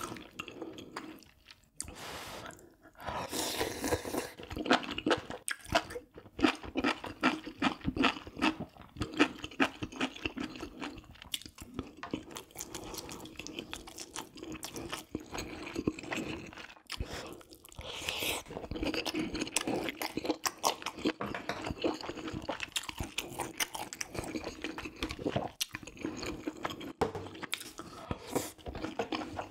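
Close-miked chewing and mouth sounds of a person eating spicy braised pork ribs with rice cakes and mushrooms: a dense, irregular run of small clicks and smacks, with a brief lull about two seconds in.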